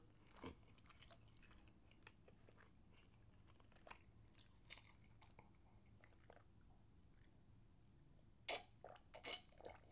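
Faint chewing and mouth clicks, very quiet, then a short cluster of louder sipping and gulping sounds about a second before the end as water is drunk from a glass.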